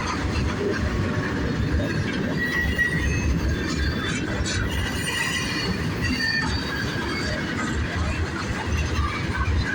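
Freight cars rolling slowly past, with a steady rumble of wheels on rail and intermittent high squeals from the wheels.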